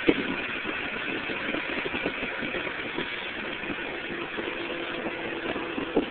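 A bike rolling fast down a hill: a steady rush of wind and tyre noise, with frequent small rattles and knocks.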